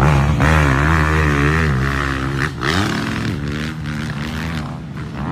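Motocross bike engines running, their pitch rising and falling again and again as the throttle is worked, over a steady low engine note.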